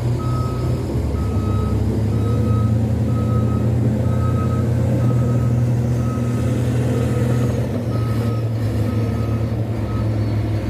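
Truck reversing alarm beeping, about one and a half beeps a second, over a truck engine running steadily; the beeping stops near the end.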